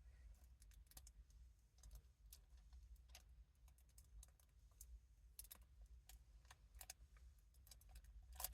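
Faint, irregular small clicks and taps, with a sharper click near the end: fingers picking at and pressing on small adhesive letter stickers and their backing.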